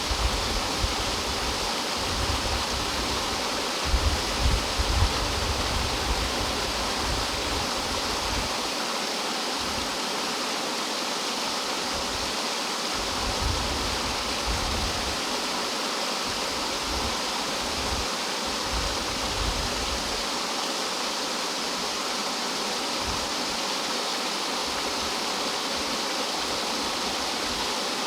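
Rough mountain-valley stream water rushing and cascading like a small waterfall: a steady, full rush. Deep low rumbles come and go beneath it, with a few brief louder surges about four to five seconds in.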